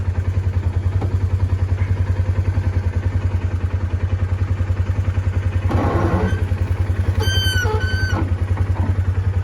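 Polaris Ranger 570 side-by-side's single-cylinder engine running at a steady, even pulsing beat through a quieted, modified exhaust as it drives the trail. Two brief high squeaks come a little past the middle.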